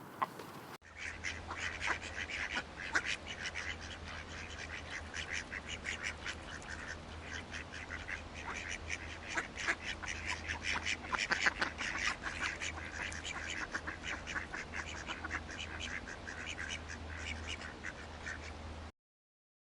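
Many ducks quacking, a dense run of short calls in quick succession over a steady low rumble. The sound cuts off suddenly near the end.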